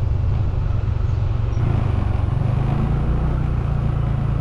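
Motorcycle engine running while riding, a steady low hum whose note steps up a little about halfway through, over road and wind noise.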